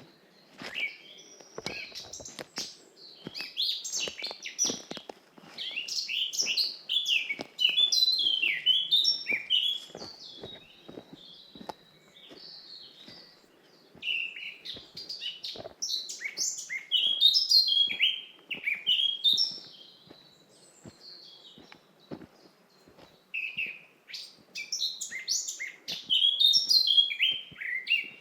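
Forest songbirds singing in three long spells of rapid, falling chirps and trills, with quieter gaps between them. Soft footsteps on a forest path sound faintly underneath.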